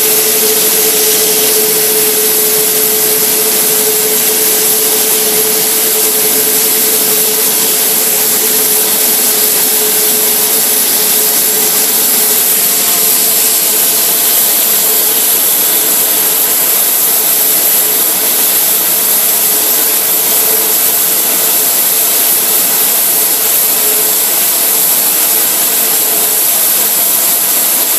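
Airbus A380 turbofan engine running steadily on a ground engine test: a loud, even rush of jet noise with a steady high whine over it.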